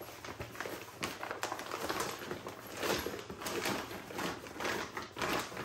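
Rustling and crinkling as a fabric cooler bag is opened and hands handle its foil-lined insulated interior, with irregular small rustles and clicks throughout.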